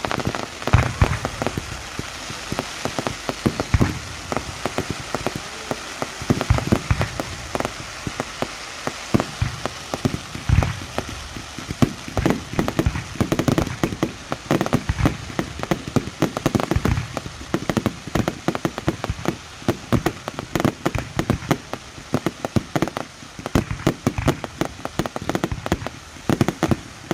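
Fireworks display: a dense, continuous crackling like heavy rain from crackle-effect shells, with deep booms of shell bursts every few seconds.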